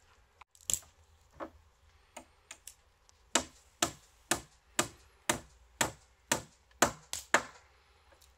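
Repeated sharp knocks, like striking blows on wood: a few scattered ones, then a steady run of about two a second that stops near the end.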